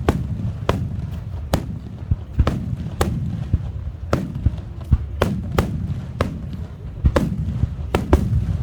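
Aerial fireworks shells bursting in quick succession: more than a dozen sharp booms at uneven intervals over a continuous low rumble of echoing reports.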